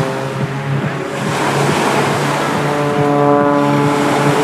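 CAP 231 aerobatic plane's piston engine and propeller giving a steady droning note that grows brighter about three seconds in.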